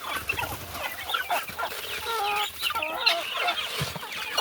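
A flock of chickens clucking and calling over one another, many short overlapping calls with no pause.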